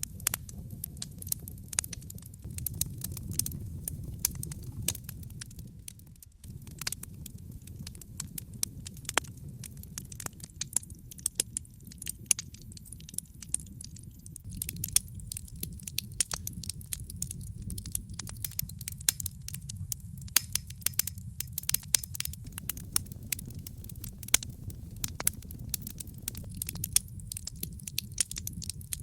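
Fire burning in a fireplace, crackling with many sharp, irregular pops over a low, steady rumble of the flames.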